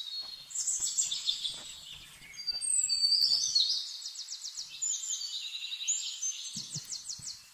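Birds singing and chirping, several calls overlapping, with fast trills and short whistled glides.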